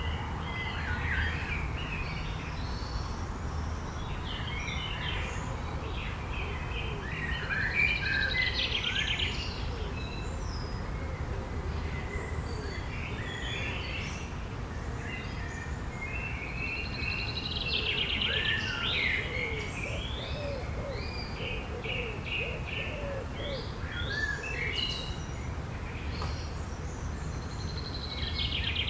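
Forest songbird chorus: several small birds chirping and trilling at once, with denser bursts of song about every ten seconds, over a low steady rumble.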